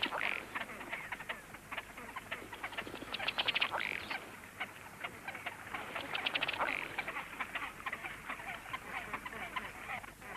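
Drake ruddy duck's bubble display: a rapid run of ticking taps as he drums his bill against his breast, each run ending in a brief croak. The display repeats about every three seconds.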